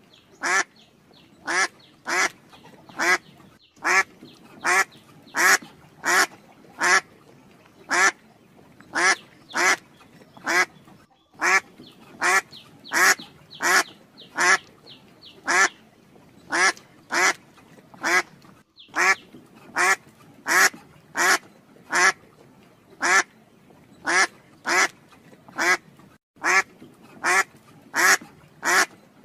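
A short, harsh animal call, repeated at an even pace of about one and a half calls a second, with a brief pause about every seven and a half seconds.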